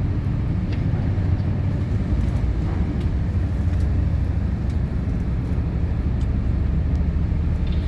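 Steady low engine rumble, even in level throughout, with a few faint ticks over it.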